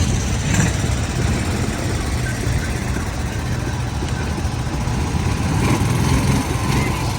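Motorcycle engines idling and running in a steady low rumble, with the faint sound of people talking.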